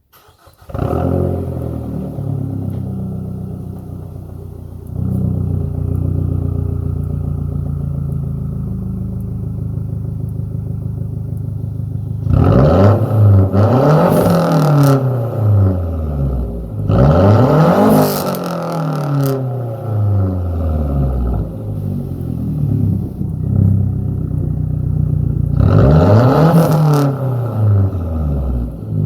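2006 Mazda 6 with a 2.25-inch straight-pipe exhaust from the downpipe back, starting up about a second in and idling. It is then revved in short blips, several times in the middle and once more near the end, the pitch rising and falling with each.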